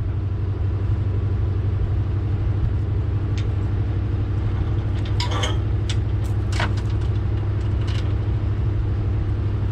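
V8 engine idling steadily with a deep, even rumble, with a few light clinks in the middle.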